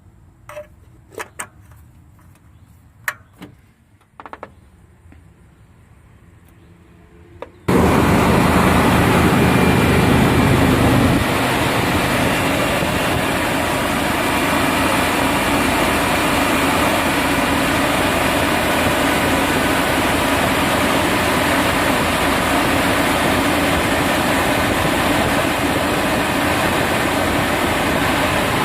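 A few light clicks, then about eight seconds in the 1990 Chevrolet C1500 pickup's engine starts and runs, higher for the first few seconds before settling to a steady idle, run to check the repaired power steering pump for leaks.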